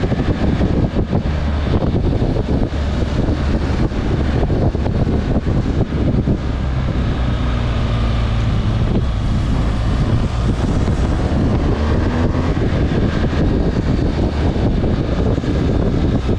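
Motorcycle engine running while riding, with wind buffeting the microphone. The engine pitch rises and falls in the middle stretch.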